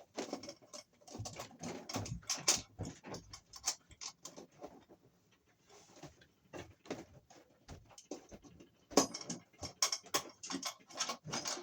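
Irregular clicks, taps and light metal rattles of hands handling wires, a screw and tools at an electrical junction box, thinning out for a few seconds in the middle and picking up again near the end.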